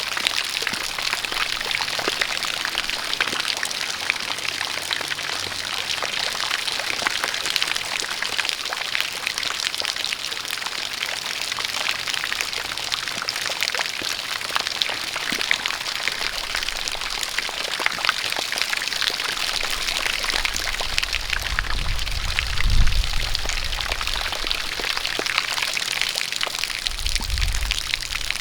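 Steady rain with a jet of water pouring, a dense hiss full of small drop ticks. Low rumbles come up in the last third, the strongest about two thirds of the way through and another shortly before the end.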